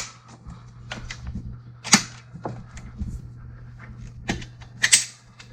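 A balcony door's lock and handle being worked to unlock and open it: sharp clicks at the start, again about two seconds in, and twice near the end, over a steady low hum.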